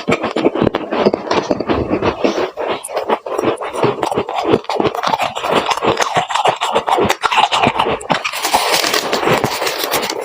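Freezer frost crunching: a rapid, continuous run of crisp crunches and scrapes, growing denser and brighter about eight seconds in.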